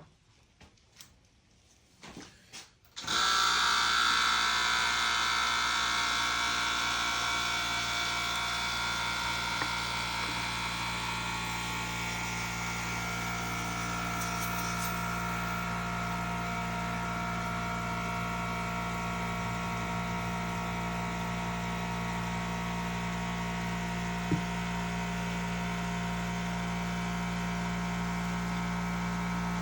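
Small hobby airbrush compressor starting about three seconds in and running steadily, with a faint hiss of air, after a few light taps; a single click near the end.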